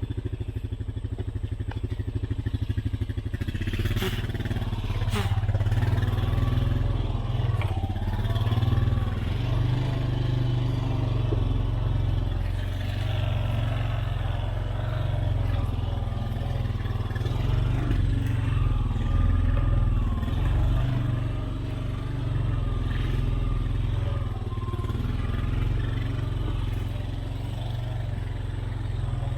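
Four-wheeler (ATV) engine running as it is ridden along a wooded trail, evenly pulsing at first and then louder and uneven from about four seconds in, with a few sharp clicks.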